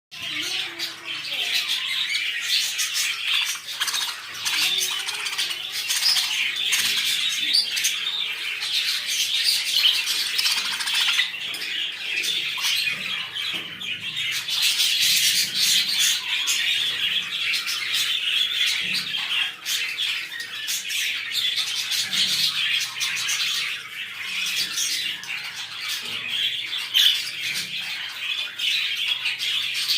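A flock of small pet parrots chattering, chirping and squawking together in a dense, continuous chorus.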